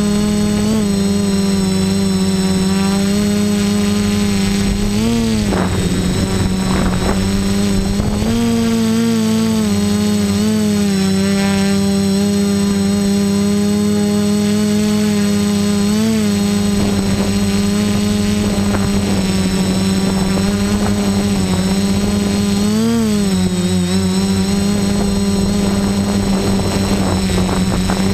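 Quadcopter's electric motors and propellers whining steadily in flight, heard close up from the camera mounted on it. The pitch rises and dips briefly a few times.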